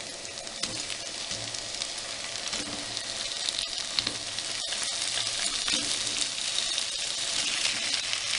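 Chicken pieces sizzling in hot sunflower oil with sauteed onions and ginger-garlic paste in a kadai, with a few light scrapes of stirring. The sizzle grows steadily louder.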